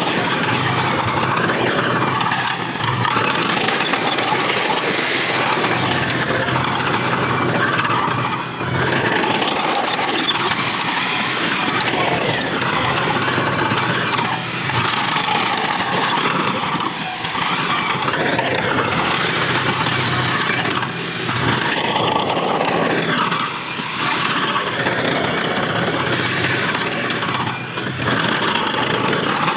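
Heavy earthmoving machinery running steadily under load, a diesel engine's low hum under a dense mechanical clatter, with the level dipping briefly every few seconds.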